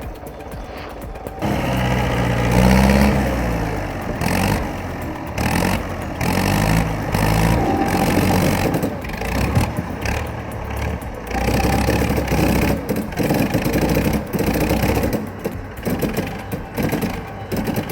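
Heavy machine's engine running under load, its pitch rising and falling as it is revved up and down.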